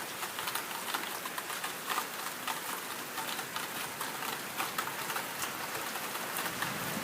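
Heavy rain pouring down, a steady hiss with many close drops splashing and pattering on surfaces.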